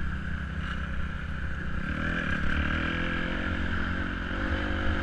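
Dirt bike engine running, its pitch climbing gently as it revs up from about two seconds in.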